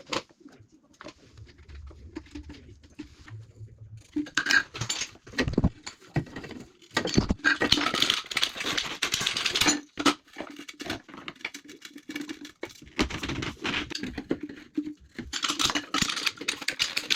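Irregular clicks, knocks and scraping of hand work on plastic waste pipe and fittings, with louder stretches of scraping in the middle and near the end.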